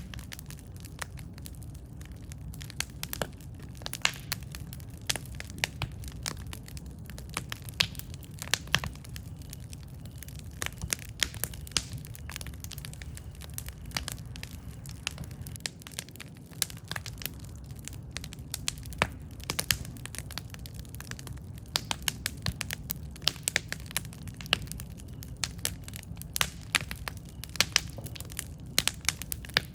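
Wood campfire crackling: irregular sharp snaps and pops over a steady low rumble of the flames.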